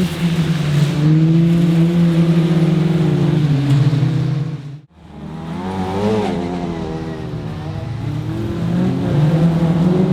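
Autograss racing car engines running at high revs. About five seconds in the sound cuts off abruptly, then resumes with an engine whose pitch wavers up and down before settling into steady high revs.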